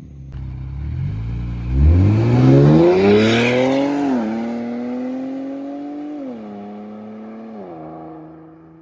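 Infiniti Q60 with its muffler and resonator deleted accelerating hard: the exhaust note climbs quickly in pitch, then drops and climbs again three times as it shifts up, and fades as the car pulls away.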